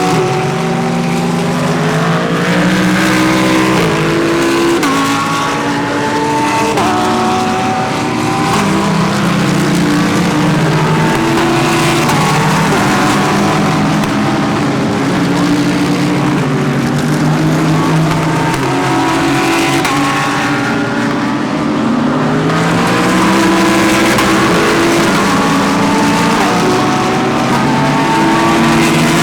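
GT3 race cars accelerating past one after another, their engines climbing in pitch and dropping back at each upshift, with several cars often heard at once in a continuous loud stream.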